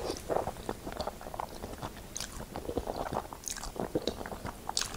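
Close-miked chewing of a mouthful of creamy wide ribbon pasta, with many short wet mouth clicks throughout and a few brief hissy slurps.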